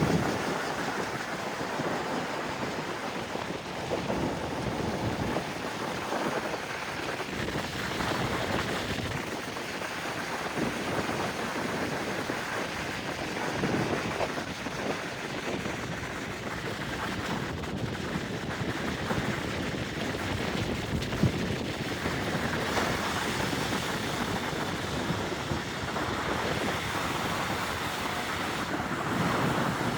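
Steady rainfall with wind gusting over the microphone.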